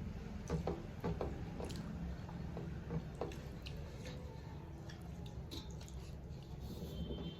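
Wet chewing and squishing sounds of someone eating rice with fish curry, with scattered small clicks and ticks over a steady low hum.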